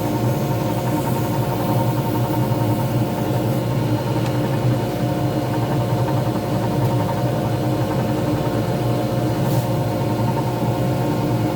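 Wood lathe motor running steadily with a constant hum while a resin pen blank spins for turning and finishing.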